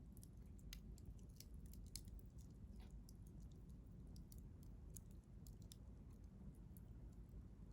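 Wood fire crackling faintly, with scattered small sharp pops and ticks of burning wood over a low steady background.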